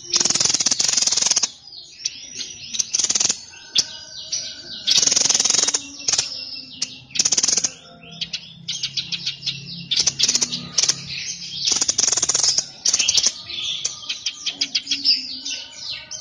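A songbird singing loudly. Its song is a run of rapid, rattling trills, each up to about a second and a half long, broken by quick chirps and short whistled notes.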